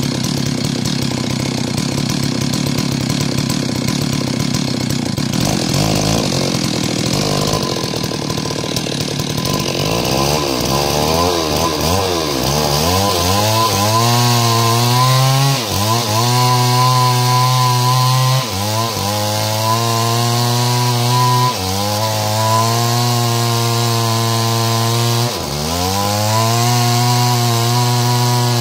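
Stihl two-stroke chainsaw running at high revs while cutting lengthwise through wood to make planks. The engine note is rough at first and then settles into a steady high whine, which sags sharply and recovers about every three seconds as the load on the chain changes.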